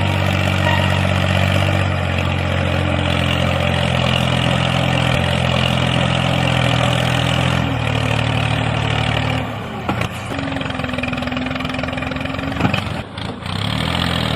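Tractor engine running steadily at idle. The engine sound drops away about nine and a half seconds in, a steady single-pitched hum follows for a couple of seconds, and the engine sound returns near the end.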